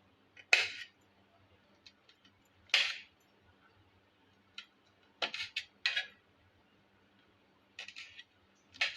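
A handful of short, light clinks and knocks of small hard objects being handled and set down, scattered with gaps, several close together about halfway through.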